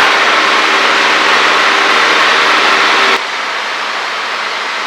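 Cessna 152's four-cylinder engine and propeller running steadily, heard inside the cockpit as a loud drone with airflow hiss. About three seconds in the sound suddenly drops to a quieter, smoother hiss.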